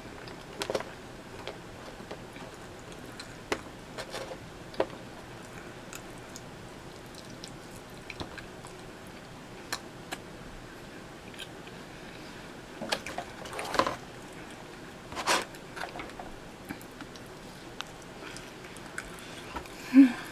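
Close-up eating sounds: a person chewing and biting pizza, with scattered wet mouth smacks and clicks. A cluster of louder smacks comes past the middle, and a short loud sound near the end.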